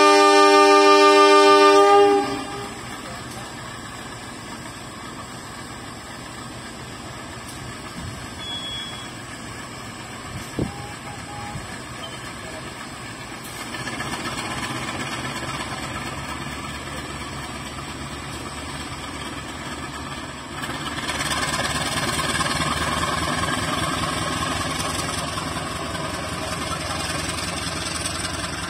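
Diesel locomotive's multi-tone horn sounding one loud blast of about two seconds, the signal that the Kauripan passenger train is departing. Then the departing train's engine and coaches rumbling as they roll past, growing louder about halfway through and again about three-quarters of the way in.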